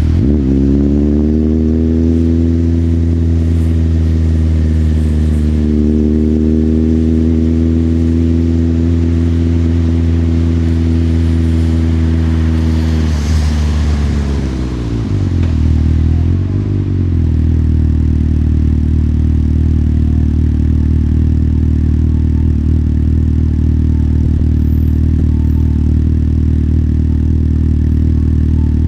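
Motorcycle engine heard from the rider's seat: it picks up at the start and runs steadily, eases off about 13 seconds in with a short blip of the throttle, then settles into a steady idle for the last ten seconds or so.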